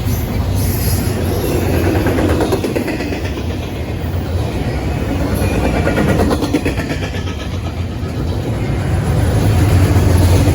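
Train passing close by: a steady, loud rumble of rolling rail cars.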